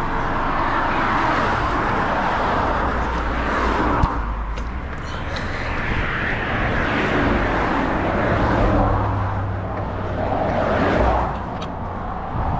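Road traffic passing close by, cars swelling and fading one after another, with a single sharp click about four seconds in.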